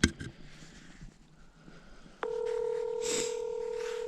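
A sharp click, then about two seconds in a telephone ringback tone sounds once for about two seconds, a steady hum-like ring heard on an outgoing call while the other phone is ringing.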